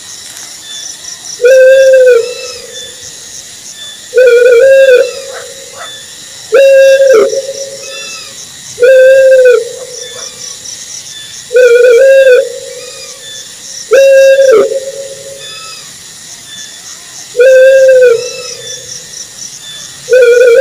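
An owl hooting over and over: about eight short, pitched calls, one roughly every two and a half seconds, with a faint, high, rhythmic pulsing underneath throughout.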